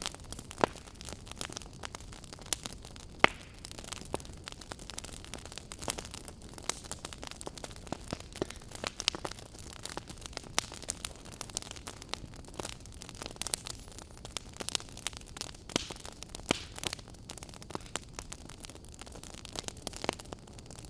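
Campfire burning, with a steady low hiss and frequent irregular crackles and sharp pops from the burning wood.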